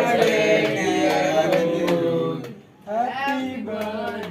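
Several voices singing together, with a short break a little over halfway through before the singing picks up again.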